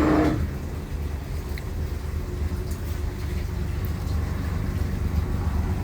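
Mercury 300 outboard engines idling in neutral: a steady low rumble. There is a brief louder burst of noise right at the start.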